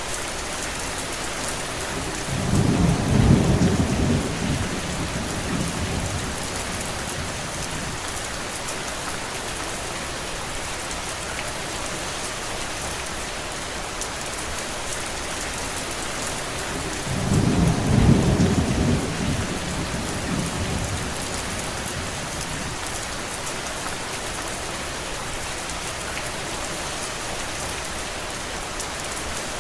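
Steady rain hissing, with two low rolls of thunder rumbling through it, each lasting a few seconds, about fifteen seconds apart.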